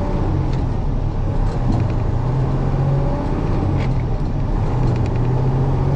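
Semi-truck diesel engine running steadily at low speed.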